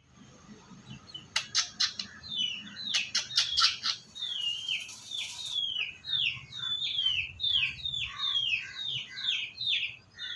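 A bird chirping over and over, about two calls a second, each one a quick note falling in pitch. A run of sharp clicks comes before the chirping begins.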